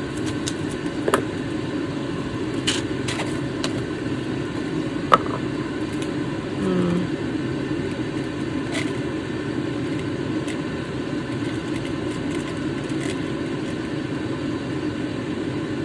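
Steady low background hum, with a few light clicks and taps from small objects being handled.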